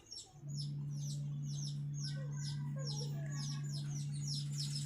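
Birds chirping in quick repeated high notes, with a faint cluck or two. Under them a steady low hum starts about half a second in and stays level.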